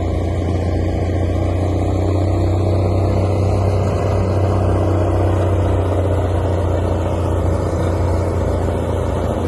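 Heavy truck engine running steadily with a deep, even hum, not revving up or down.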